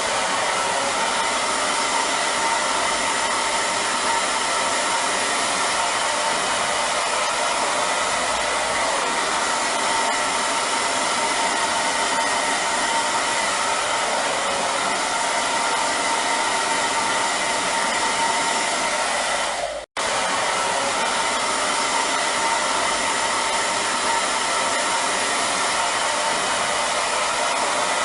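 Hair dryer running steadily: an even blowing hiss with a faint steady whine. It cuts out for an instant about twenty seconds in and carries straight on.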